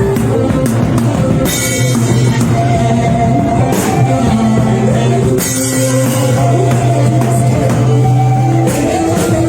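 Live worship band playing: a held bass line and sustained chords, with three cymbal crashes.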